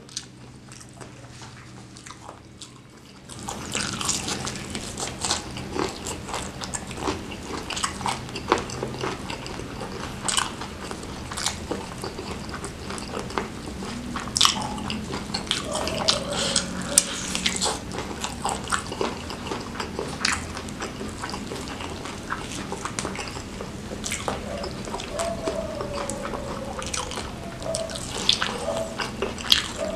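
Close-miked chewing of spicy fried noodles and fried chicken: wet smacking mouth sounds with many small sharp clicks. It grows louder and denser about three seconds in. Near the end comes a bite into a piece of fried chicken.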